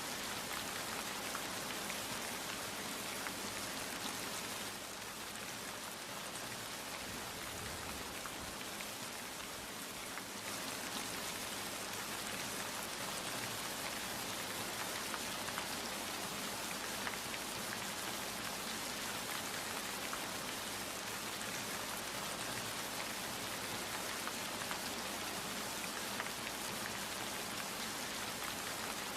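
Steady rain falling, an even hiss of many drops, a little softer for a few seconds about five seconds in.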